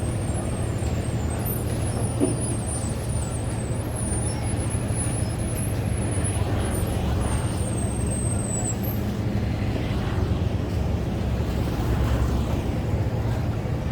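Engine of a fishing boat running with a steady low drone. A thin, high, wavering whistle sounds faintly over it for the first nine seconds or so.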